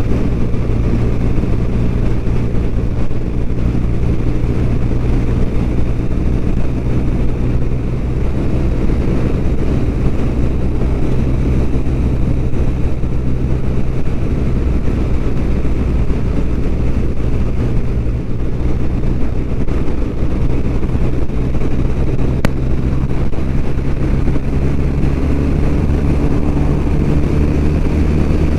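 BMW R1200RT boxer-twin engine running at a steady cruise while riding, with heavy low wind rumble; the engine note shifts slightly near the end.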